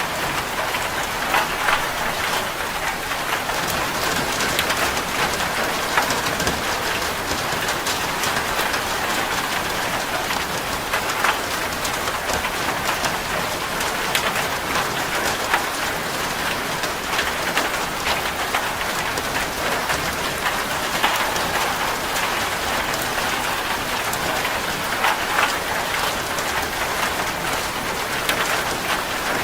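Steady heavy rain drumming on a corrugated zinc roof: a dense, even hiss of drops with many separate sharp pings of drops hitting the metal sheets.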